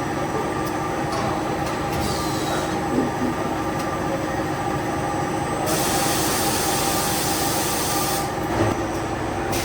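Plastic factory machinery running steadily with a constant hum and an occasional knock. A hiss of air starts about six seconds in and stops about two and a half seconds later.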